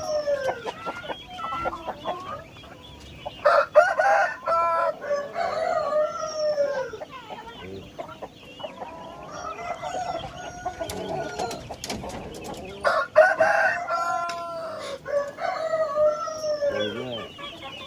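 Domestic chickens calling: roosters crowing with long calls that fall away at the end, one a few seconds in and another about two-thirds through, with hens clucking around them.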